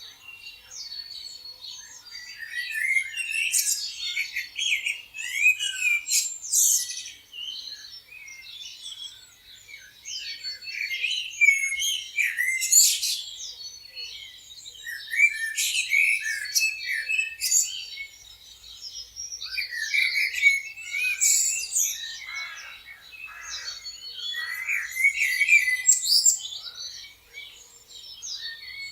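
Many songbirds chirping and singing together, with overlapping short chirps, trills and whistles that swell and fade every few seconds.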